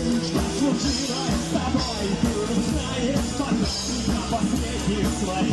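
Live rock band playing a song: electric guitars, bass and drums with evenly repeated cymbal hits.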